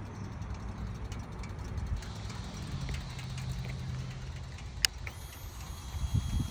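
Low rumble, then a sharp click about five seconds in and a faint high whine as the 2016 Harley-Davidson Low Rider S's V-twin is switched on, followed near the end by the first low pulses as the engine cranks and starts to fire.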